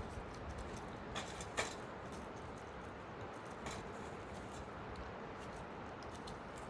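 Steady background noise with a few sharp clicks or knocks, the loudest about one and a half seconds in.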